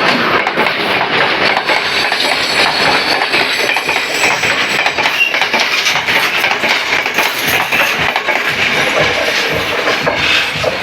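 A train passing close by, its wheels clattering steadily over the rails.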